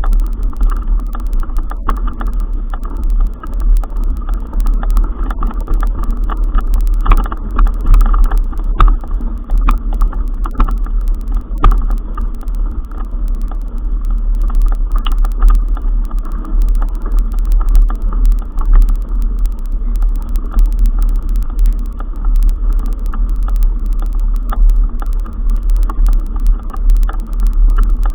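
Steady, loud low rumble of wind and travel noise on a moving camera's microphone during a ride, with scattered knocks and rattles throughout.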